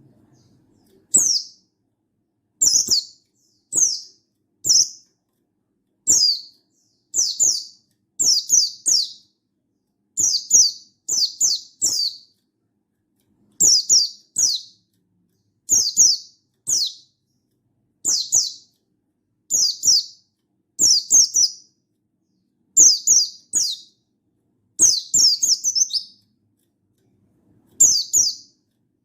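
Buxtoni white-eye (pleci) calling: short, high calls that fall in pitch, given singly or in quick pairs and triples about once a second, with a longer pause near the end.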